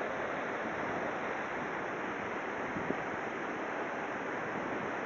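Waterfall: a steady, dense rush of water pouring over the edge of the falls.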